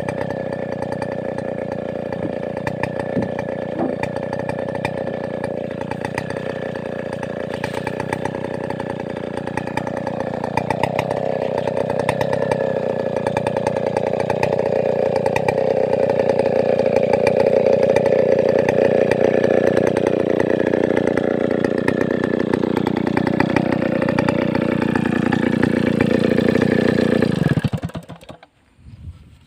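Large two-stroke Stihl 070-type chainsaw running steadily at high revs, getting somewhat louder in the second half, then shutting off abruptly near the end.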